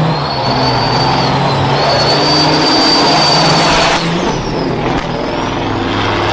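Loud road noise from a moving road vehicle: engine hum and rushing tyre and wind roar, with a steady high-pitched whine over it that dips briefly a few times.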